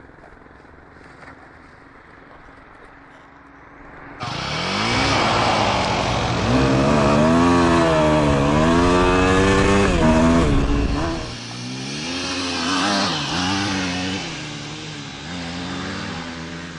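Dirt bike engine revving, its pitch rising and falling over and over. It comes in suddenly about four seconds in and eases somewhat lower after about eleven seconds.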